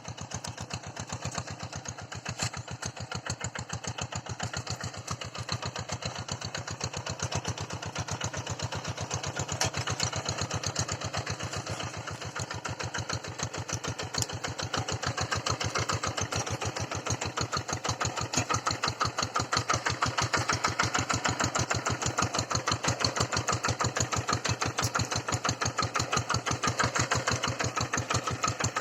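Engine of a two-wheel hand tractor running steadily with an even rapid chugging while plowing, getting louder about two-thirds of the way through.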